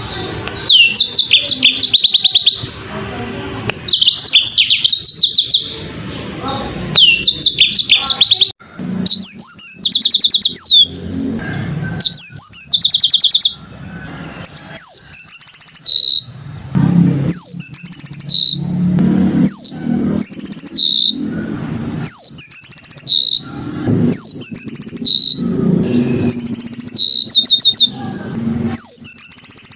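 Yellow-fronted canary (Mozambique canary) singing: phrase after phrase of fast, high-pitched trills and repeated chirping notes with short pauses between them. A thin steady high note runs beneath the later phrases.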